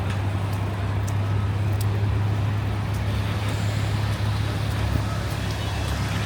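Steady low rumble of wind on the microphone over city street traffic.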